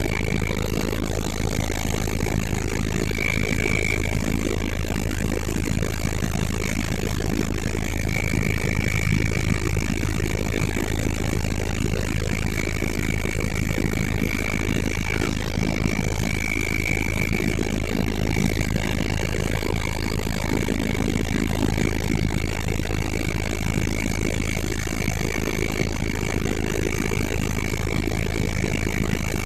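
Helicopter running steadily: a constant engine and rotor drone with a steady high whine.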